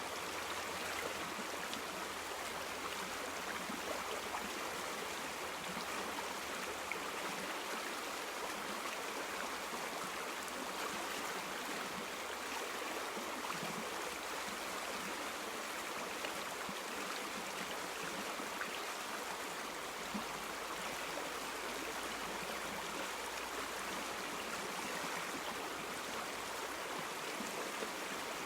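A river or stream flowing over stones, a steady even rush of moving water with a light burble.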